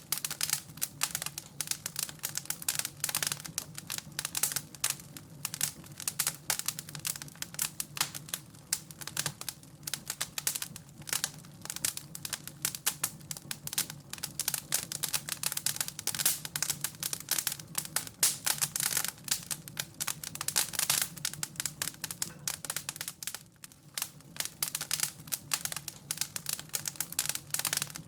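Wood fire in a fireplace crackling and popping: a dense, irregular run of small snaps that never stops.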